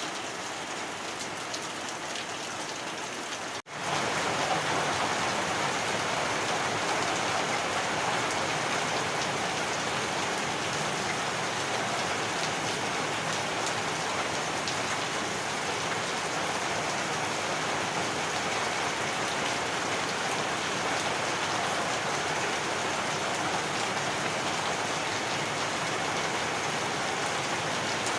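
Heavy rain falling steadily. About four seconds in it cuts out for an instant and comes back a little louder.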